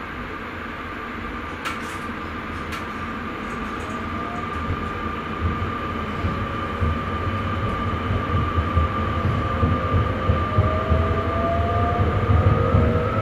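Sprinter electric train heard from the driver's cab: rumble of the wheels on the track under a steady electric whine, both growing louder. Near the end the whine and several lower tones rise in pitch as the train gathers speed. Two short clicks come about two seconds in.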